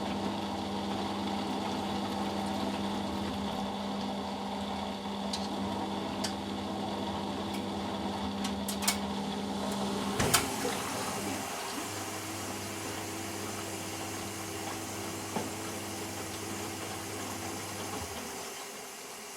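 Eudora Sparmeister 702 washing machine in its rinse phase: water moves with a steady pump hum. About halfway through, a sharp click stops the hum. A few seconds later a different hum starts, runs for about six seconds and cuts off near the end.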